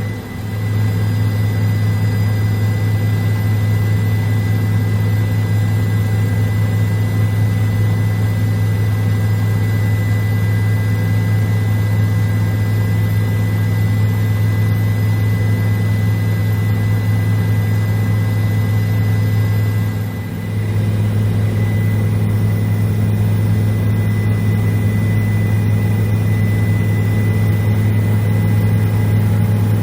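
Tour helicopter's engine and rotor drone heard from inside the cabin: a loud, steady low hum with a faint high whine above it, dipping briefly about twenty seconds in.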